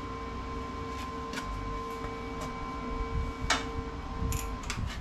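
Steady machine hum with a few sharp clicks, over wind rumbling on the microphone. The hum cuts off near the end.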